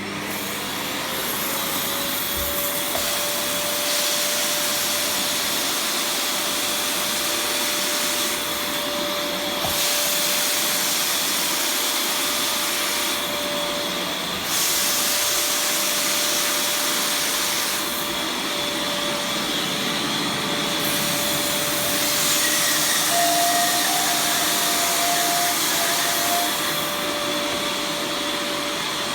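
Beam Limatic steam vacuum cleaner switched on: its motor whine rises and settles over the first couple of seconds, then runs steadily under a loud hiss of suction. The hiss changes in brightness every few seconds.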